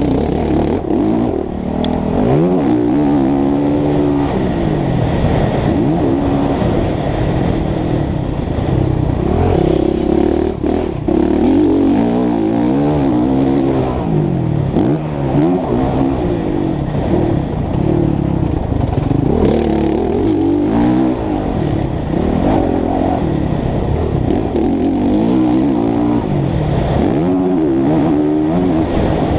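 Honda CRF450 motocross bike's single-cylinder four-stroke engine revving up and falling back over and over as the rider accelerates, shifts and throttles off, heard from a helmet camera with most of the sound low and muffled.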